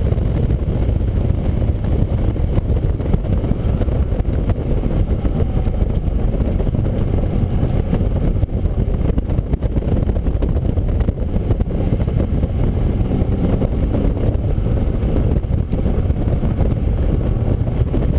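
Race car driving on track, heard from an onboard camera: a steady, loud low rumble of engine, road and wind noise, with a faint engine tone showing briefly near the start and again about two-thirds of the way through.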